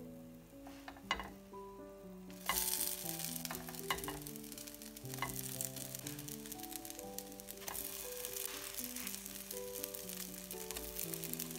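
Cottage-cheese pancakes sizzling in hot oil in a nonstick frying pan. The sizzle jumps up sharply about two and a half seconds in as the pancakes are turned over with a spatula, with a few light taps of the spatula on the pan. A soft melody plays underneath.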